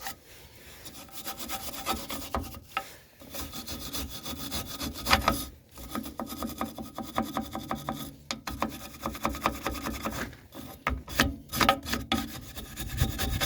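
Hand scrubbing and scraping on a rusty steel drum-brake part to take off rust, in quick back-and-forth strokes with a few brief pauses.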